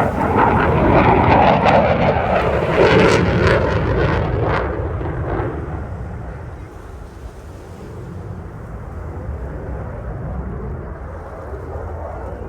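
F/A-18 Super Hornet fighter jet passing, its twin jet engines a loud crackling roar that fades away over about the first six seconds, leaving wind and surf.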